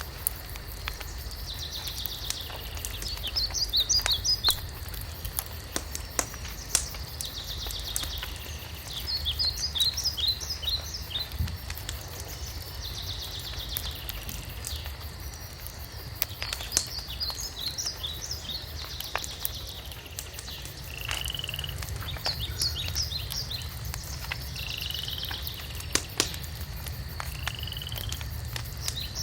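Wood fire crackling with scattered sharp pops. A songbird sings a short phrase of buzzy trills and quick high notes, repeated every few seconds.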